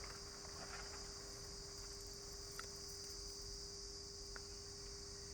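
Faint, steady, high-pitched chorus of forest insects such as crickets or cicadas, with a faint steady low hum beneath.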